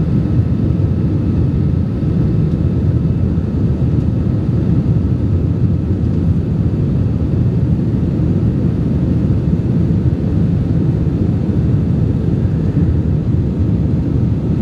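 Airliner cabin noise in the climb just after takeoff: the engines and rushing air make a steady, loud low rumble, with a faint thin tone above it.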